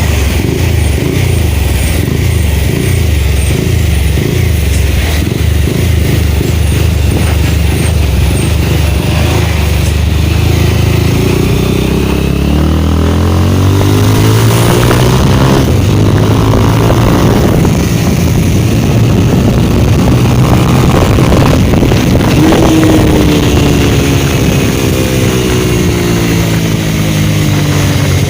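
Motorcycle engine running under way on the road, its note climbing about a third of the way in as the bike speeds up, then holding high and steady.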